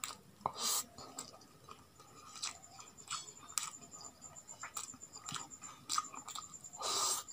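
Close-up eating sounds: chewing roasted chicken and rice, with scattered soft wet clicks and lip smacks and two louder noisy bursts, one near the start and one near the end.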